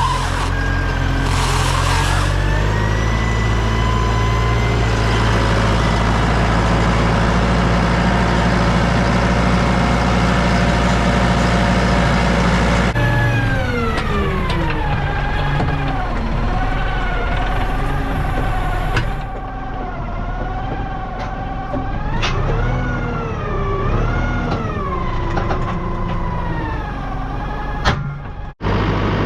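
Tractor engine running: steady at first, then after a sudden cut its pitch drops and rises and falls again and again as the revs change.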